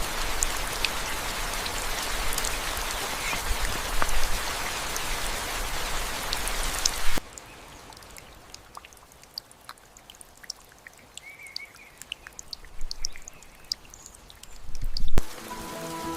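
Heavy rain hissing steadily for about seven seconds, then cutting off abruptly to a quieter scene of scattered raindrops dripping and pattering. Music with sustained notes comes in near the end.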